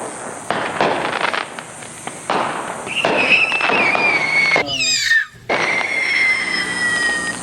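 Neighbourhood fireworks going off: a string of bangs and crackles, with two long, high, slowly falling whistles, one about three seconds in and another near the end.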